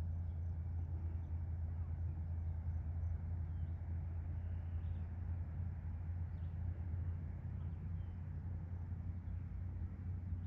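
Outdoor ambience: a steady low hum with a few faint, short bird chirps over it.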